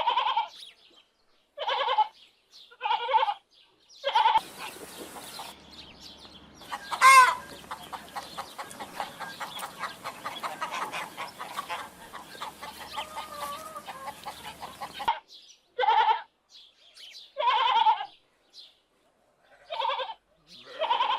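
Short animal calls repeated every second or two. In the middle a different stretch with a steady noisy background, one loud call and rapid short clucks or ticks, then the short repeated calls return.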